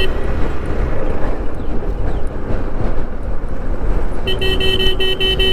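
Wind rush and engine and road rumble from a moving motorcycle. About four seconds in, a high electronic beep starts pulsing rapidly, about six or seven times a second, like a vehicle horn or alarm beeper.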